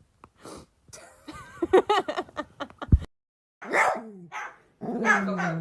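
A dog barking and vocalizing in short calls, with a brief gap about three seconds in; the last calls fall in pitch.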